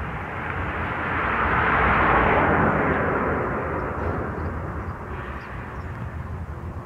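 Freight train wagons rolling past on the far track: a steady rumble of wheels on rails that swells to its loudest about two seconds in, then eases back.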